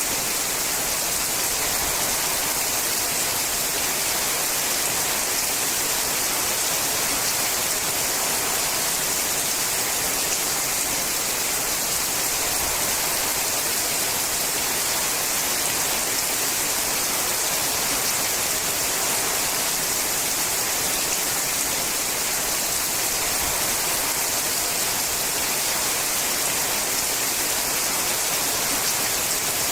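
Steady heavy rain falling on a sheet-metal roof: a dense, even hiss with no single drops standing out.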